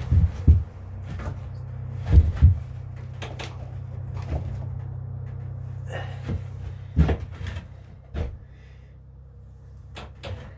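A series of separate knocks and clunks, the loudest about 2 seconds in and about 7 seconds in, over a steady low hum that fades somewhat about 8 seconds in.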